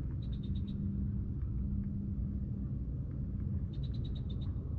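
A bird gives two quick runs of about six short, high chirps, one just after the start and one near the end, over a steady low rumble with a faint hum.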